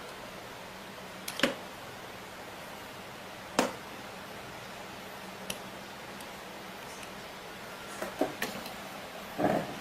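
Sharp clicks and knocks of small tools and plastic switch parts being handled while wires are connected to wall switch terminals: one about a second and a half in, another about three and a half seconds in, a faint one in the middle, and a cluster near the end, over a steady low hum.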